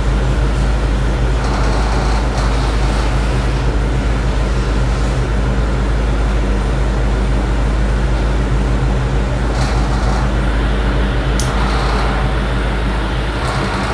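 Ford 460 big-block V8 with an Edelbrock Pro Flow 4 fuel-injection system running on an engine dyno at a steady speed.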